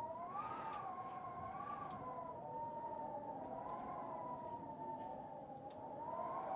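Fireplace fire crackling with sharp scattered pops, under a louder continuous whistling tone that wavers slowly up and down in pitch.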